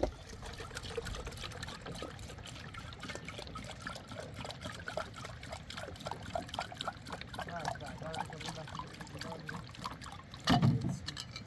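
Water trickling and gurgling in a dense patter of small bubbling sounds. A louder, low, heavy sound comes in near the end.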